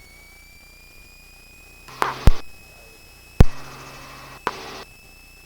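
Helicopter intercom audio: a faint high whine rises slowly in pitch, broken by two sharp clicks and short buzzy bursts of intercom or radio sound.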